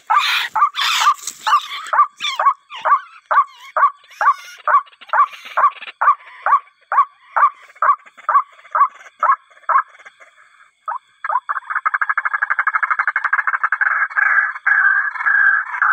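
White-breasted waterhen (ruak-ruak) calling: a loud call repeated about twice a second for some ten seconds. After a short pause it breaks into a fast, continuous rattling chatter.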